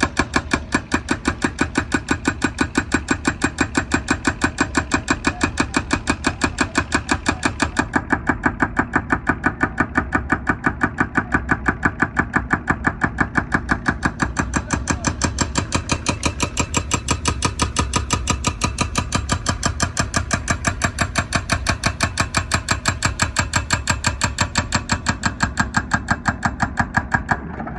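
Hydraulic breaker hammer on a wheeled excavator pounding asphalt: a fast, steady train of blows, several a second, over the running engine.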